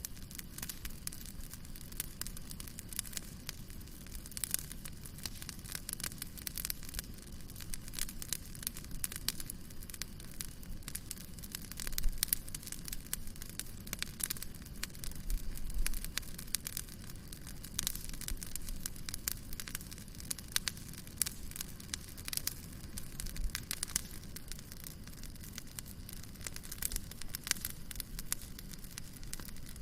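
Wood campfire crackling: dense, irregular sharp snaps over a low steady rumble of burning, with a few louder pops about twelve and fifteen seconds in.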